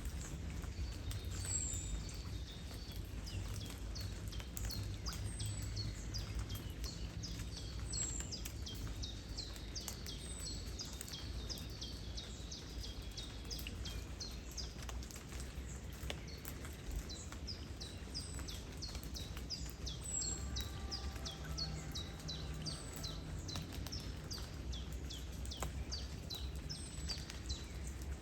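Small birds chirping over and over in short, quick, falling notes, over a steady low rumble of wind and flowing river water, with light rain ticking here and there.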